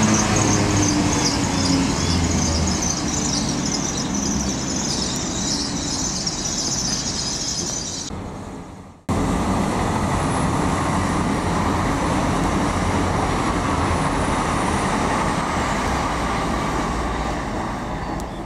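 A GWR Intercity Express (Class 800-family) train passing through at speed, with a high hissing squeal over a rumble and a hum that falls in pitch, dying away about eight seconds in. After a sudden cut comes a steady rumble of passing rail traffic with a faint high whistle sliding slowly down, as a DB Cargo Class 66 diesel locomotive comes by near the end.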